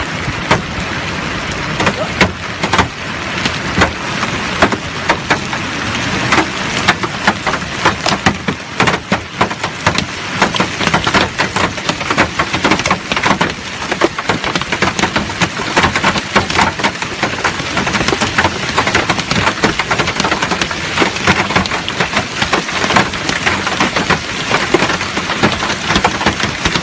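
Hail and heavy rain pelting hard surfaces: a dense, steady hiss with many sharp, irregular strikes throughout.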